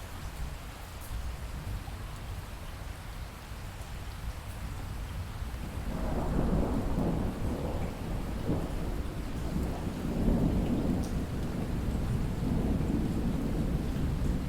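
Steady light rain with distant thunder. About six seconds in, a low rumble swells up and rolls on in waves to the end, loudest a little past the middle.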